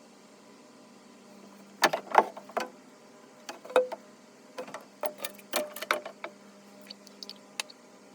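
An irregular series of short clinks and knocks from hard objects being handled, a few of them ringing briefly, over a steady low hum. They come in a cluster starting about two seconds in, with scattered lighter ticks near the end.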